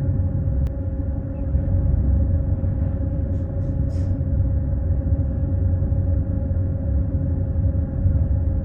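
Steady low engine rumble with a constant droning hum, as heard inside a running vehicle. A few faint ticks come about three to four seconds in.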